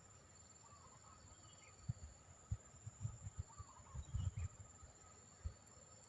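Steady high-pitched insect drone with a few short, faint bird chirps. Between about two and five and a half seconds in, a run of low thumps and rumbles is the loudest sound.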